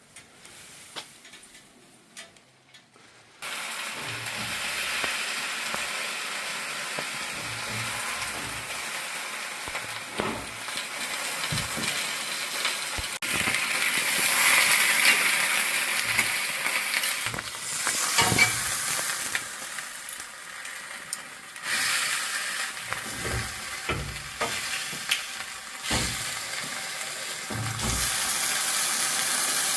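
Food frying and sizzling in a pan, stirred with a utensil that knocks and scrapes against it now and then. The sizzling starts abruptly about three seconds in.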